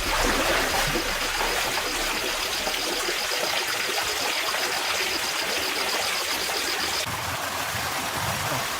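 Steady rushing water, like a stream or small waterfall, with a faint rapid high pulsing that stops about seven seconds in.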